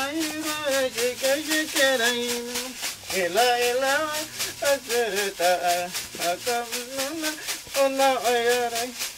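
A man chanting a wavering, gliding song while shaking a rattle in a steady beat, about four to five shakes a second: a shaman's ceremonial healing song.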